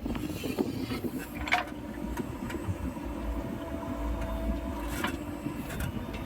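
Heavy diesel machinery running steadily at a low rumble, with two or three short knocks.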